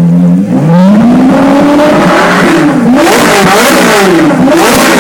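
Ferrari 458 Challenge's naturally aspirated 4.5-litre V8 revved from idle: its pitch climbs about half a second in, then several quick blips of the throttle rise and fall in pitch.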